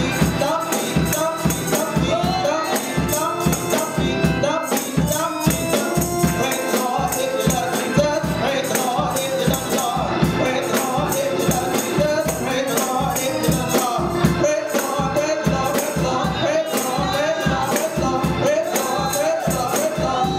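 Gospel praise music: voices singing over a steady, rapid percussion beat.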